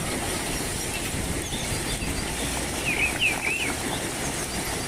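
Steady outdoor background noise, with a small bird chirping three quick times a little after the middle.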